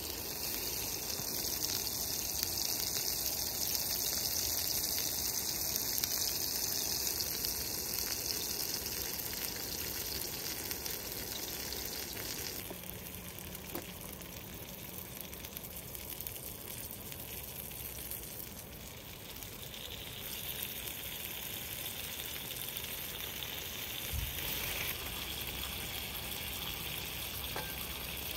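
Food frying, a steady sizzling hiss that changes character abruptly a few times, as between separate shots.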